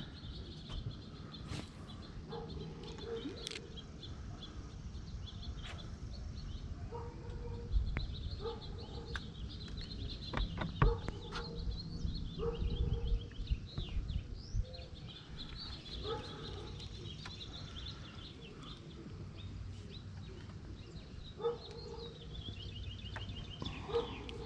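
Birds calling around the water: repeated chirps and trills alongside short, lower calls, over a low rumble with a few sharp knocks.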